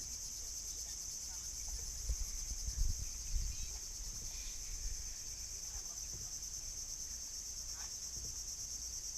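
Steady, high-pitched insect chorus with a fine, fast pulsing, running throughout. A few low bumps come about two to three and a half seconds in.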